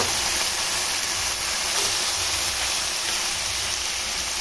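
Marinated chicken pieces frying in a pan with sautéed garlic and onion: a steady sizzling hiss.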